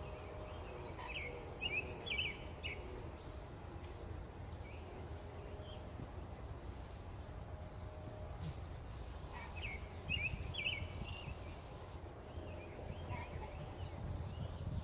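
A songbird singing two short phrases of quick chirpy notes, one about a second in and another about eight seconds later, over a steady low outdoor rumble.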